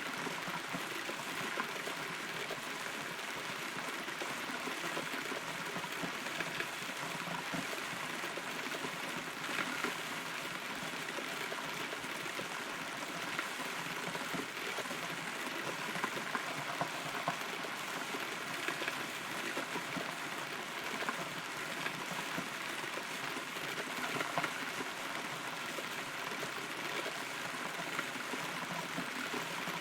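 Rain falling on and around a hollow rotten tree, heard from inside the trunk: a steady patter with scattered individual drops ticking.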